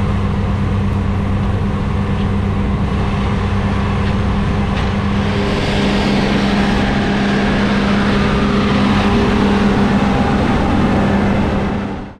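New Holland CR 8.90 combine harvester running steadily under load while threshing protein peas, its FPT Cursor 16 six-cylinder engine giving a constant low hum under a broad rushing noise. It grows a little louder midway and fades out at the very end.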